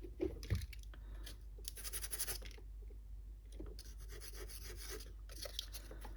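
Quick, evenly repeated scratchy rubbing strokes in two short spells, with a soft knock about half a second in.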